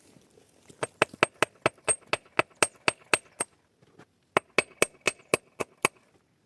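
Rapid hammer blows, about five a second, each ringing sharply like steel on a nail: a run of about a dozen strikes, a short pause, then about six more.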